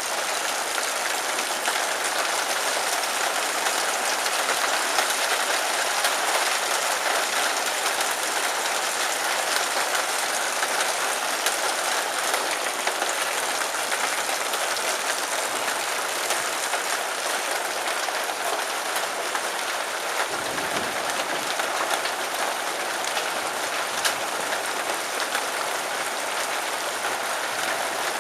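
Heavy rain mixed with hail pelting a metal porch roof, a dense, steady patter of countless small impacts.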